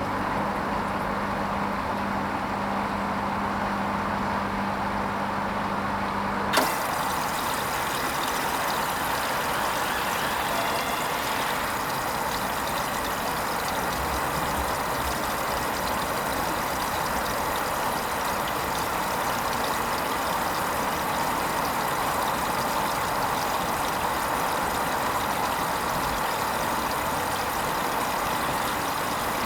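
Hoover Vision HVP16 washing machine: a steady low hum stops with a click about six seconds in, and a steady hiss of running water follows, typical of the water valve opening to fill the drum.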